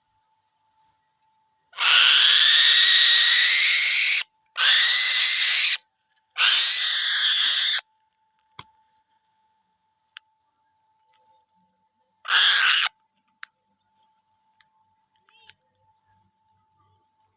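Small raptor screeching: three long, harsh calls in quick succession, then a shorter one several seconds later, with faint clicks between them.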